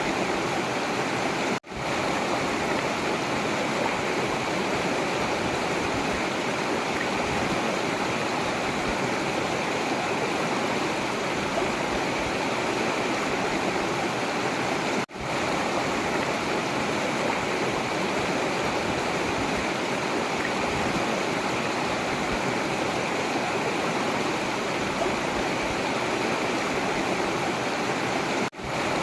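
Forest river water rushing and splashing steadily. The sound cuts out for an instant three times, about every thirteen seconds.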